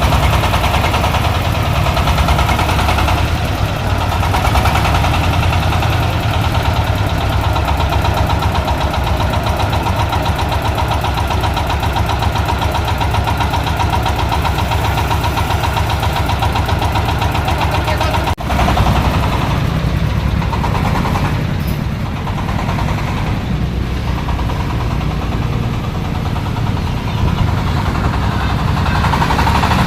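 Dong Feng 26 HP single-cylinder diesel engine running steadily, driving a corn sheller, with a brief dropout about 18 seconds in.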